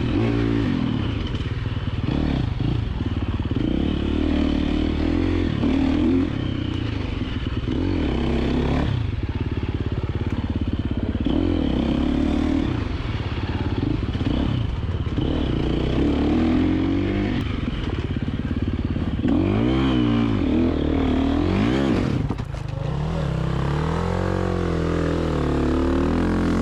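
KTM 350XC-F single-cylinder four-stroke dirt bike engine being ridden hard, its pitch rising and falling again and again as the throttle is opened and closed through the turns and gear changes. Loudness dips briefly about three quarters of the way through.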